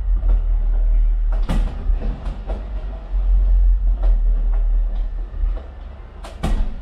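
Fireworks going off: a continuous deep rumble of distant explosions with scattered sharp bangs, the loudest about a second and a half in and two close together near the end.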